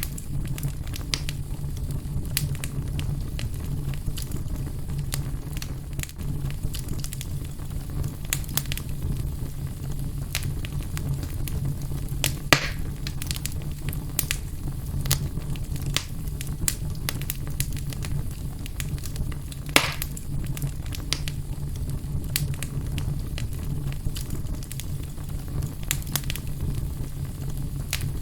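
Fire burning in a fireplace: a steady low rumble of flames with scattered crackles, and two louder pops, a little before halfway and about two-thirds of the way through.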